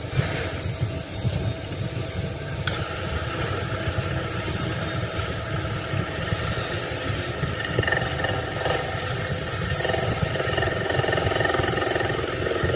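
An engine running with a steady low rumble; about eight seconds in, higher whining tones join it.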